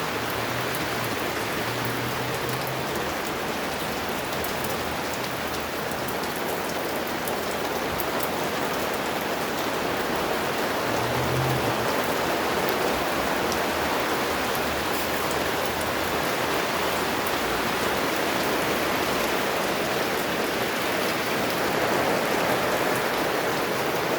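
Steady rain falling, a dense even hiss with scattered sharp clicks of drops striking nearby.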